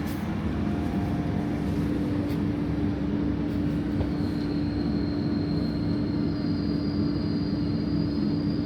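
REX8 regional train running along the line, heard from on board: a steady rumble with a constant low hum. A faint high whine comes in about four seconds in.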